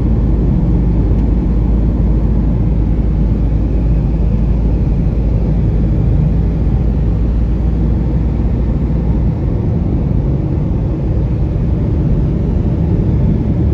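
Steady low rumble of a moving vehicle, even in loudness throughout; the deepest part of the rumble drops away about nine seconds in.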